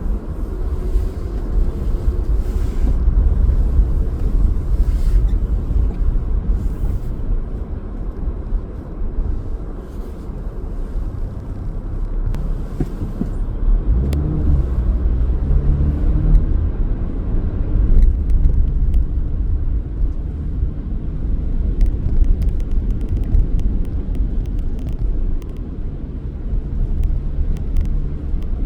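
Car driving on the road: a steady low rumble of engine and tyres, with a few faint ticks.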